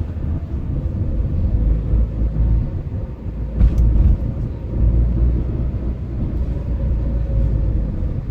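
Car being driven through town traffic: steady low road and engine rumble with a faint steady hum. A brief sharp hiss comes about three and a half seconds in.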